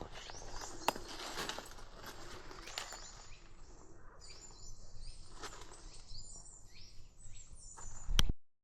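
Woodland ambience with birds chirping, mostly in the second half, and a few sharp knocks or footsteps, the loudest near the end.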